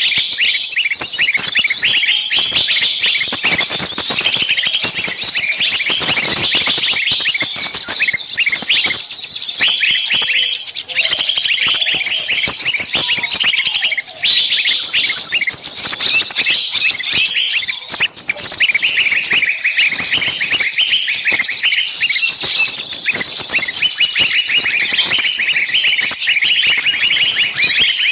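A dense, unbroken chorus of many small songbirds chirping and shrieking at once, rapid high chirps overlapping throughout. It is a bird-lure call mix for catching small birds, built around noisy screaming calls like those of a bird caught and in distress.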